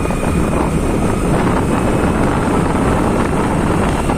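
Heavy wind noise on the microphone of a moving vehicle, with road noise beneath; loud and steady.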